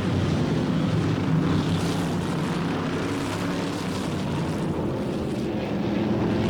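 A field of modified and sportsman stock car engines running hard at racing speed, several engine notes overlapping in a steady drone that dips slightly about halfway through and builds again.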